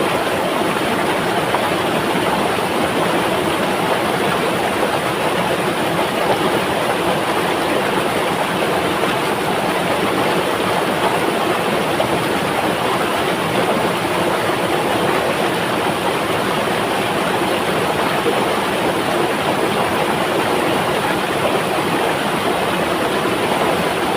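River water flowing steadily, a continuous even rushing with no breaks or changes.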